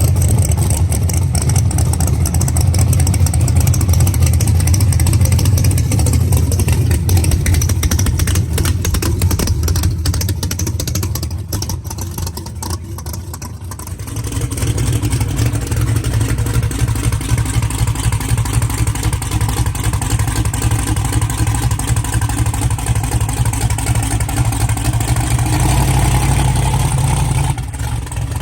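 Twin-turbo Chevrolet S10 drag truck's engine running loud at the track, its level sagging around ten seconds in and its tone changing at about fourteen seconds.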